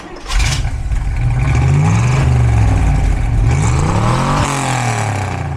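Car engine revving, its pitch rising and falling several times, with the biggest climb in revs about four seconds in.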